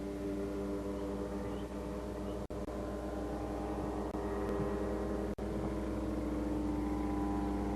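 Two-stroke ultralight aircraft engine droning steadily in flight, growing a little louder in the second half. The sound cuts out completely for an instant twice.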